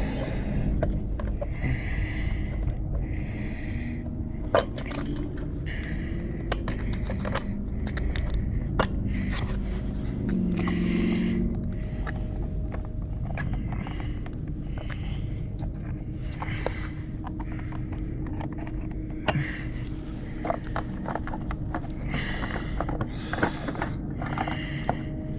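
Mini bike's clutch and jackshaft being handled by hand: scattered sharp metal clicks and scrapes over a low steady rumble.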